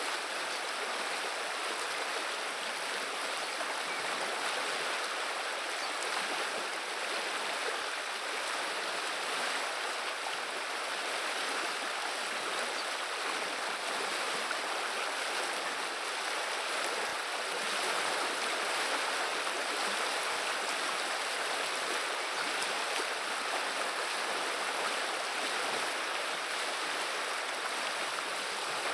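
River water flowing: a steady, even rushing with no distinct splashes or other events.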